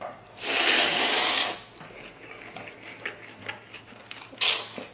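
A person slurps oil-splashed wheat noodles in one long, loud slurp, then chews with soft wet clicks. A second short slurp comes near the end.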